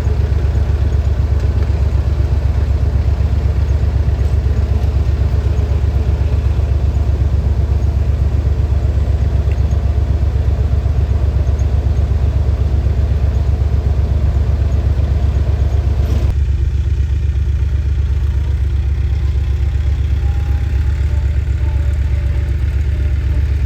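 Mahindra diesel tractor engine running steadily with an even low throb. About 16 seconds in, the higher clatter drops away suddenly while the low rumble continues.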